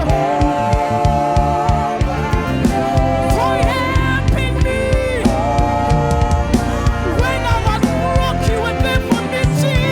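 Live gospel worship music: voices singing long, wavering held notes over a band with a steady drum and bass beat.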